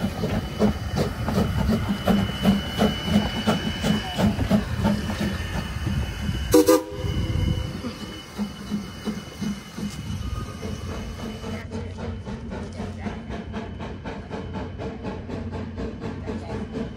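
Two-foot narrow-gauge passenger train rolling by, its wheels clicking rhythmically over the rail joints, with a thin steady high squeal through the first half. One short, sharp sound about six and a half seconds in is the loudest moment.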